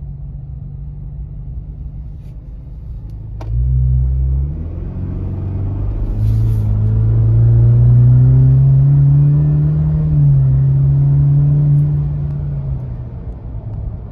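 A Ford Ranger's 2.3 L EcoBoost four-cylinder, heard inside the cab through a Roush cat-back exhaust. A steady low drone gives way, about three and a half seconds in, to hard acceleration: the exhaust note gets loud and climbs in pitch, dips at an upshift around ten seconds in, then eases off near the end.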